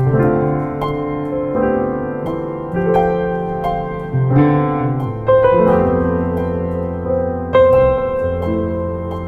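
Background piano music: calm chords and single notes struck every second or so, each ringing on and fading.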